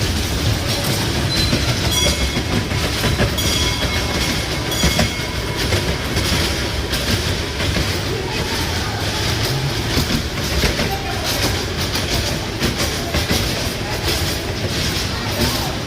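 Train running on rails: a steady rumble with scattered wheel clicks and faint high wheel squeals.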